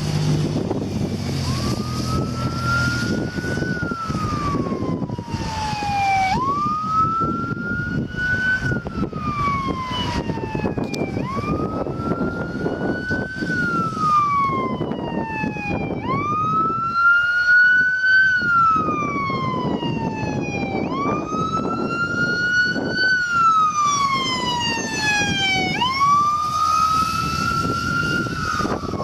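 Ambulance siren on a slow wail, rising and falling about once every five seconds, over steady road and wind rumble.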